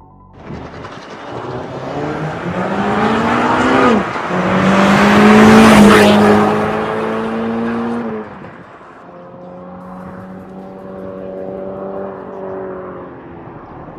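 Toyota 86's FA20 flat-four through an MS-R valved cat-back exhaust, accelerating hard: the pitch climbs to a gear change about 4 seconds in, the sound is loudest around 6 seconds, then drops at about 8 seconds and carries on quieter and steadier.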